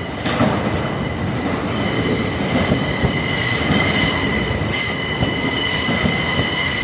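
A train's steel wheels squealing on the rails: a steady high-pitched metallic squeal over the rumble of the moving train, its upper overtones growing stronger after about a second and a half.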